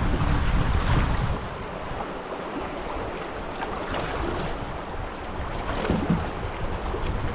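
Fast river water rushing around a canoe running high-water rapids, with wind buffeting the microphone for about the first second.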